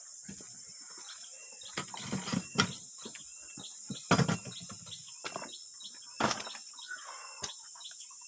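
Steady high insect buzz, with a few loud knocks and thuds: a cluster about two seconds in, another about four seconds in, and one more about six seconds in.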